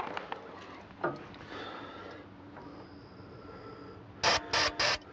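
Three quick hisses of an aerosol can of ether starting fluid sprayed into the carburetor to get a hard-starting engine to fire, near the end, after a few faint handling clicks.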